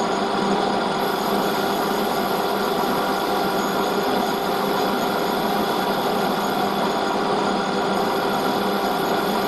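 Metal lathe running steadily while machining a tapered bush, giving an even hum with fixed tones.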